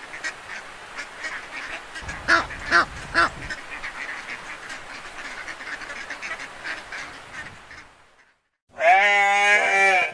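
Ducks quacking, with three loud quacks about two seconds in over a steady chatter of smaller calls. Near the end, after a brief gap, comes a louder drawn-out call lasting about a second.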